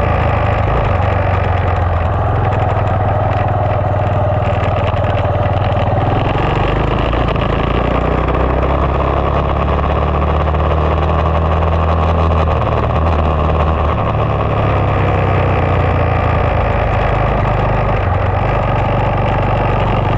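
2020 SSR 189 dirt bike's single-cylinder four-stroke engine running under way over a steady rushing noise. The engine's pitch changes about six seconds in and again around twelve to fourteen seconds.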